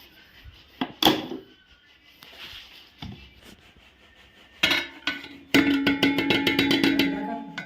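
Electric mixer grinder run in short pulses, grinding rice lumps into flour. A brief burst comes about halfway through, then a two-second run: a steady motor hum with rapid rattling ticks, fading near the end. Before that there are a few knocks.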